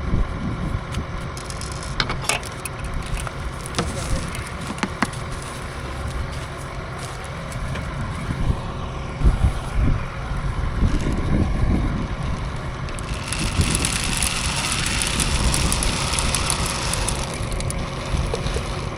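A vehicle engine running steadily, with a few sharp clicks in the first few seconds. A hissing noise rises about two-thirds of the way through and fades near the end.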